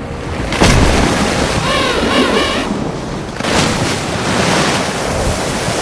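Sea water surging and splashing with wind on the microphone, with two sudden louder surges about half a second and three and a half seconds in. A short wavering, warbling call sounds about two seconds in.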